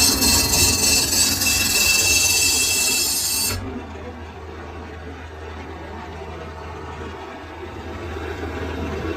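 Lathe cutting steel, a loud hiss with a thin high squeal, which cuts off suddenly about three and a half seconds in, leaving a low machine hum.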